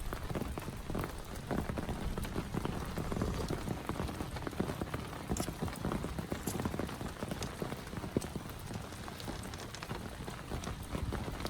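Heavy rain falling, with a dense, irregular stream of individual drops striking a nearby surface over a steady hiss.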